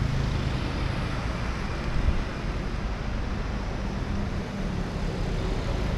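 Steady city street traffic noise, with the low rumble of passing vehicle engines.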